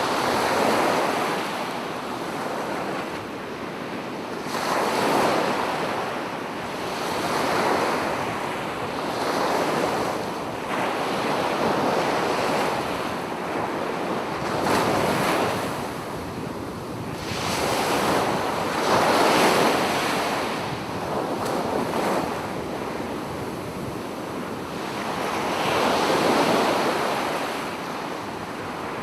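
Sea waves breaking and washing up a beach, the surf rising and falling in swells every few seconds.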